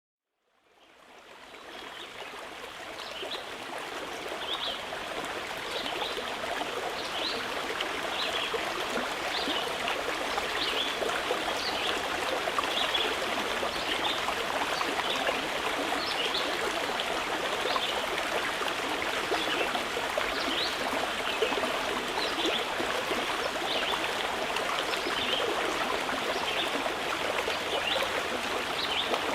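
Mountain river flowing steadily, fading in over the first few seconds. Short bird chirps repeat about once a second over the water.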